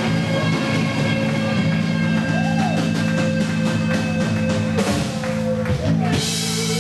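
Live rock band playing through a PA, amplified guitar and drums, with a sustained chord held and a few drum strikes about five seconds in. The recording is poor-quality.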